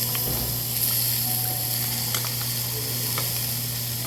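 Meat sizzling on a grill: a steady high hiss, with a few faint utensil clicks and a steady low hum underneath.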